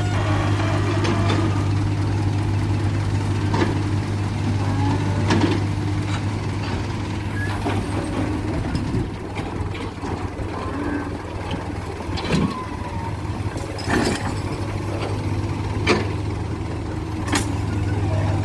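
Heavy diesel engine running steadily at a low drone, with a few sharp knocks and clanks scattered over it.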